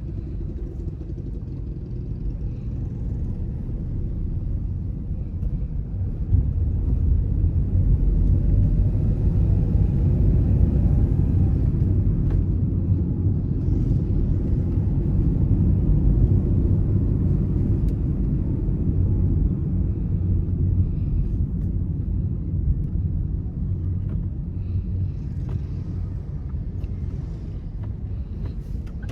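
A car driving: a steady low rumble of engine and tyres on the road, growing louder about six seconds in and easing off gradually over the last ten seconds.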